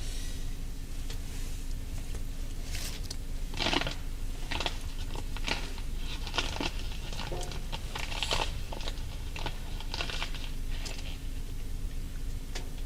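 Irregular crunching and crinkling sounds, several a second, over a steady low hum.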